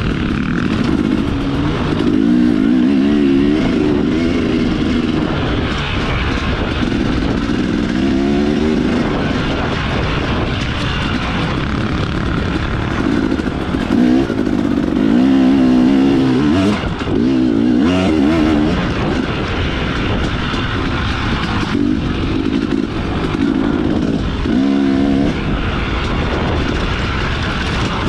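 Dirt bike engine running under load, its pitch rising and falling again and again with the throttle.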